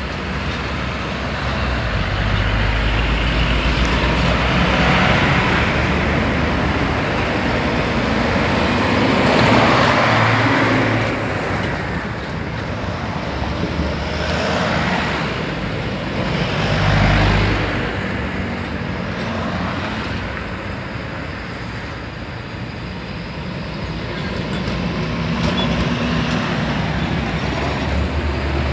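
Heavy highway traffic with large trucks: a steady rumble of engines and tyres, swelling loud as vehicles pass close by several times.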